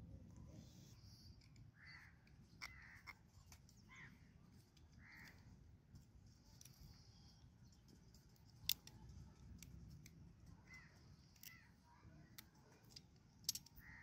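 Near silence with a bird calling faintly now and then in short calls, and a few sharp clicks, the loudest about nine seconds in and just before the end.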